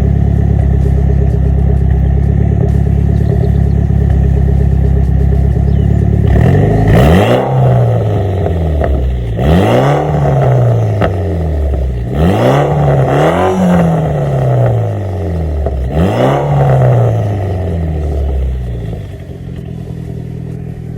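A 2008 Mitsubishi Lancer Evolution X's turbocharged 2.0-litre four-cylinder, fitted with an AMS downpipe and midpipe and an ETS V3 axle-back exhaust, idles steadily. About six seconds in, it is revved five times, each blip rising and dropping back, before it settles to idle.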